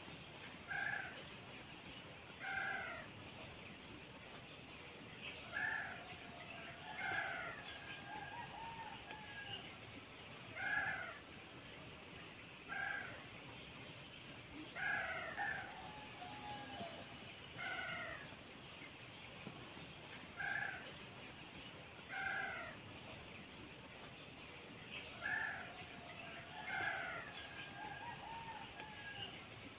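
A pitta calling, short descending notes repeated about every two seconds, over a steady high-pitched drone.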